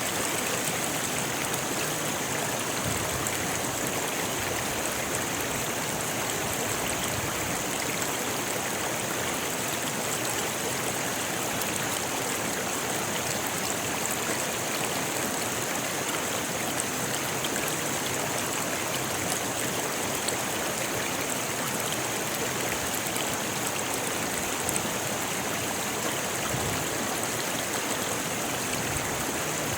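Rocky river rushing over stones in a steady, unbroken wash of water noise.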